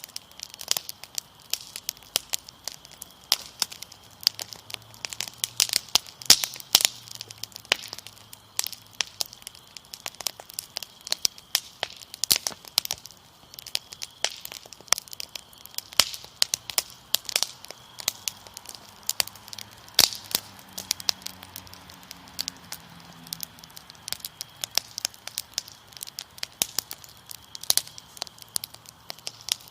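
Wood fire crackling, with dense irregular pops and snaps. Crickets chirp steadily in the background as a faint high trill.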